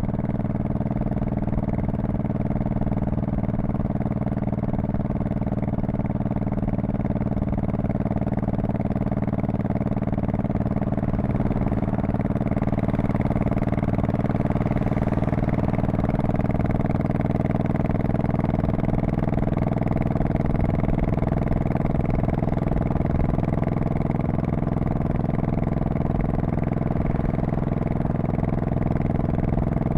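Honda Shadow Spirit VT1100C's 1,100 cc V-twin exhaust at a steady cruise. The engine note rises a little about twelve seconds in and then holds.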